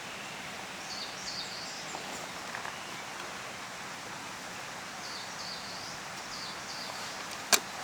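Steady rush of a stream, with a few short, high bird chirps over it about a second in and again later. A single sharp click near the end.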